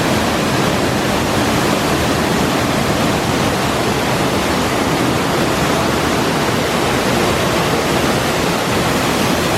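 Hinanger Wasserfall, a 12 m alpine waterfall heard up close: a loud, steady rush of falling water, with the flow running high after rain.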